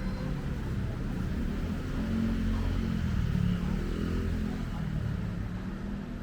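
Street traffic: vehicle engines running close by, with one growing louder about two seconds in and easing off again after about four seconds, as a vehicle passes.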